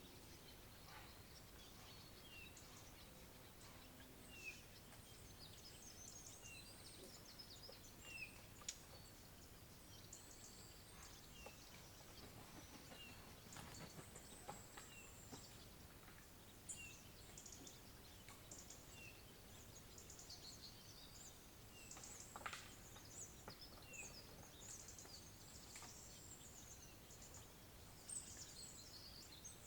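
Faint wild bird calls: a short call note repeated about every two seconds, over higher twittering song. The recordist takes it for an angry, agitated blackcap, most likely.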